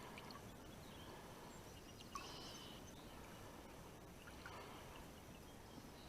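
Near silence: faint outdoor background with a soft, short sound about two seconds in.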